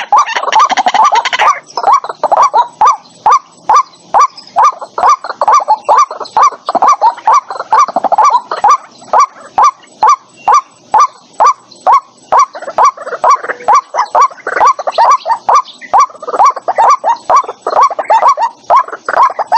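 White-breasted waterhen calling: a long series of short, harsh notes repeated about three a second, denser and overlapping in the first second or so.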